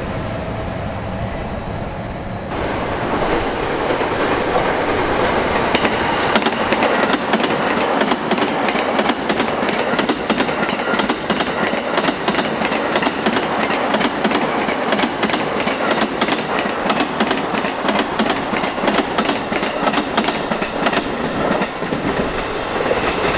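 Orange-and-green-striped JR electric commuter train passing close at speed, its wheels clattering rapidly over the rail joints. The noise sets in sharply about two and a half seconds in and eases near the end as the train clears.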